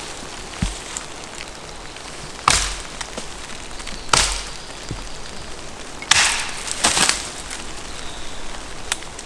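Dry wood cracking and splintering four times in sharp, sudden snaps, each dying away within half a second, over a faint steady hiss.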